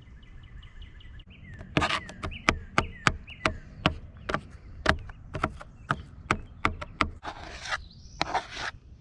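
Knife chopping vegetables on a cutting board: a run of sharp knocks, about three a second, for some five seconds, followed near the end by two longer scraping sounds.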